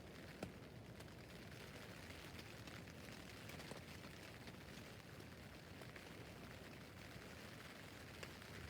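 Rain falling on a tent roof: a faint, steady hiss with separate drops ticking on the fabric, one sharper drop about half a second in.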